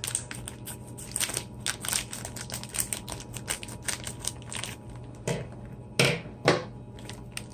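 Plastic food packaging crinkling and crackling as it is handled and opened, with two louder knocks about six seconds in.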